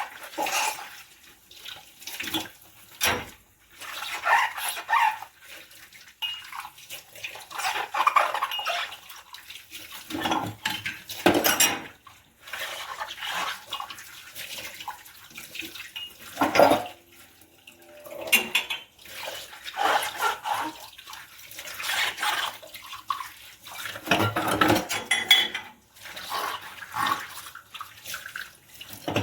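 Dishes being washed by hand in a sink: water splashing and running, with dishes and cutlery clinking and scraping in irregular bursts.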